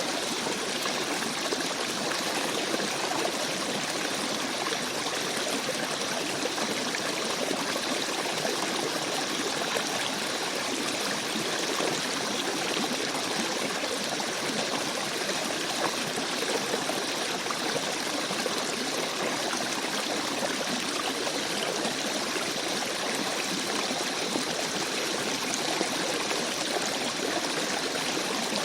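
Shallow forest stream babbling and trickling over stones, a steady, even rush of flowing water that never changes.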